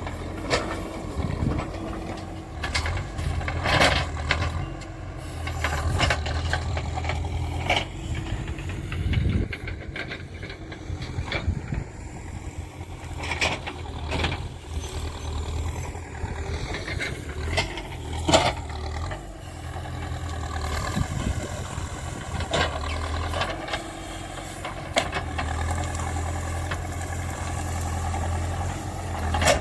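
Backhoe loader's diesel engine running and working under changing load, its level rising and falling, with many sharp knocks and clanks throughout.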